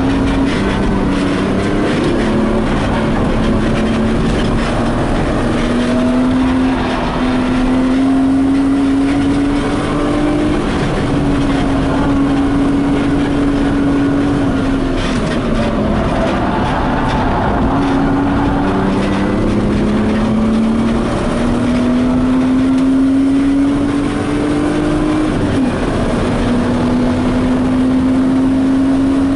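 BMW E36 coupe's engine heard from inside the stripped cabin, pulling hard with its pitch climbing slowly over several seconds, then dropping back as it shifts or lifts, a few times over.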